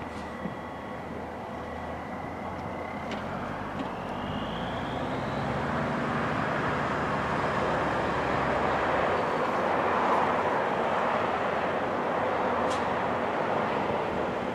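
A 1991 Freightliner truck running, its engine noise growing steadily louder, with a short rising whine about four seconds in.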